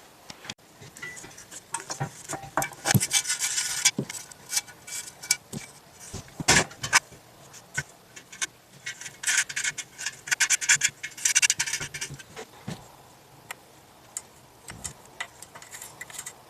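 Hand ratchet wrench clicking in several short bursts, among scattered clinks and knocks of metal tools and parts, with one sharper knock about six and a half seconds in.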